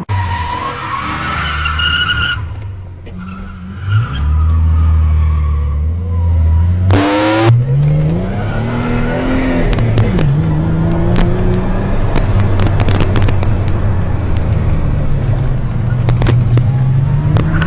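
Car engine revving hard while the tyres skid and squeal in a drift, the engine pitch climbing and dropping several times. A short loud burst comes about seven seconds in.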